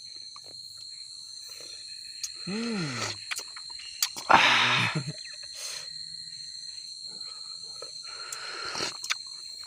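Crickets trilling steadily in the background. A person gives a short hummed vocal sound near three seconds in, and just after four seconds a louder breathy exhale, a satisfied 'aah' from taking a sip of hot coffee.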